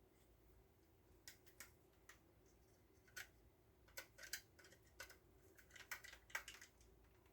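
Faint, scattered clicks and snips of small hand tools and thermocouple wire being handled at a workbench, starting about a second in and coming a little more often near the end, over a low steady hum.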